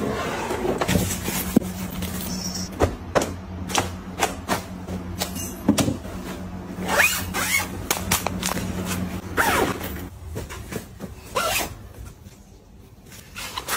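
Household items being handled and set in place: a run of irregular clicks, taps and plastic rustles with a few brief squeaks, over a steady low hum that stops about ten seconds in.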